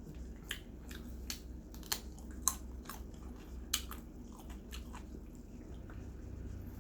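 A person chewing and biting into roasted rotisserie chicken: irregular sharp mouth clicks and crunches, a dozen or so, over a steady low hum.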